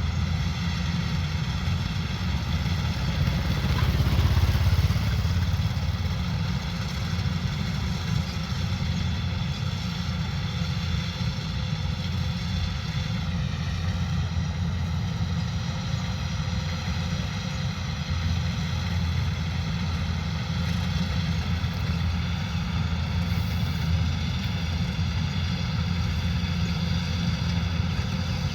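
Kubota combine harvester running steadily while harvesting rice: an even diesel drone with a whine from the machinery above it. It swells louder about four seconds in, and the pitch sags briefly about halfway through.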